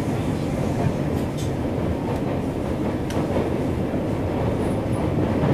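TRA EMU800 electric multiple unit running, heard inside the passenger car: a steady low rumble of wheels on rail, with a few faint clicks.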